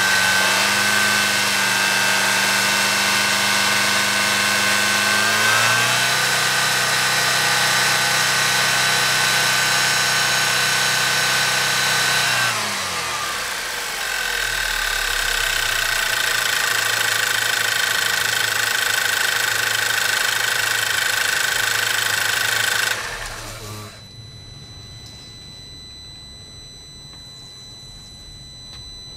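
Volkswagen Passat 1.8 TSI turbocharged four-cylinder engine running with a steady high whine. Its note steps up about six seconds in and drops about thirteen seconds in. About 23 seconds in the sound cuts off with a brief winding-down noise, the strange noise that the owner is showing, leaving only a faint steady hum.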